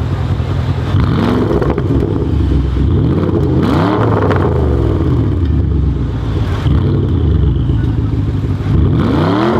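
Porsche Panamera Turbo S twin-turbo V8 through a TechArt exhaust, revving up and dropping back several times in quick sweeps.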